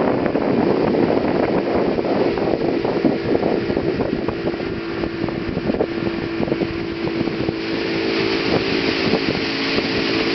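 Motorboat engine running steadily under way, with a steady engine hum coming through from a few seconds in, over heavy wind buffeting the microphone and rushing water.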